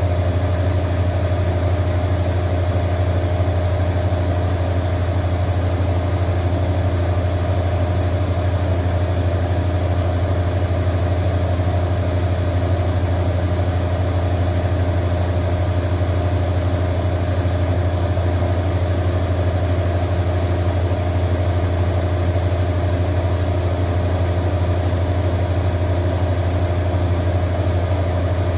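Zanker EFX 4875 washing machine in its final spin, its drum turning at a steady high speed with a constant deep hum and whine.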